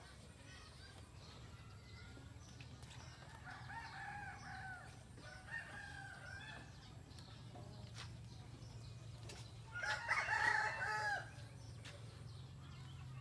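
A rooster crowing: a fainter, more distant crow about four seconds in and a louder, nearer crow lasting about a second and a half around ten seconds in, over a faint steady low hum.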